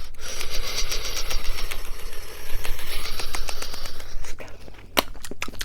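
Close-up ASMR trigger sounds on a TASCAM recorder's microphones: breath blown into the mic ('lens fogging') as a steady hiss laced with rapid fine crackling, giving way about four seconds in to sharper taps and clicks, one loud click near the end.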